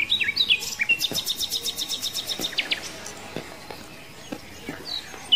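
Small bird chirping: a few quick rising chirps, then a fast trill of about ten high notes a second lasting nearly two seconds, and a couple of single chirps near the end.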